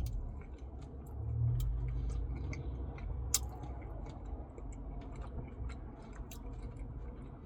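Close-up chewing of a mouthful of Blizzard ice cream with candy and cookie dough, with small wet clicks of the mouth and a low hum about a second in.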